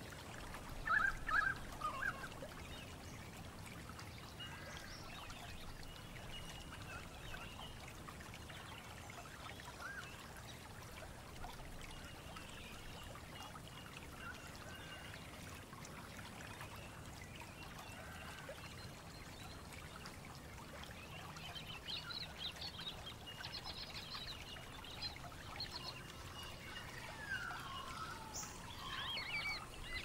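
Australian bush birds calling in a mixed chorus: a louder call about a second in, scattered calls through the middle, and a busier spell of higher chirps and falling calls in the last third.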